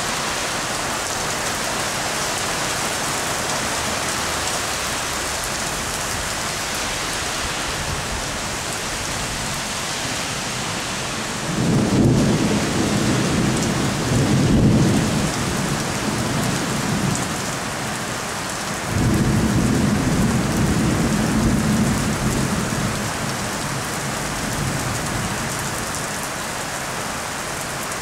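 Heavy rain falling steadily, with two rolls of thunder: a long rumble starting about halfway through and lasting several seconds, then a second rumble soon after that fades out.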